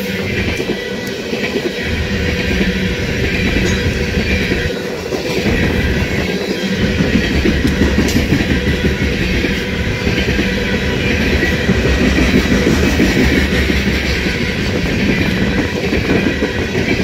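Freight train's open-top hopper cars rolling past, their steel wheels running over the rails in a steady rumble and rattle.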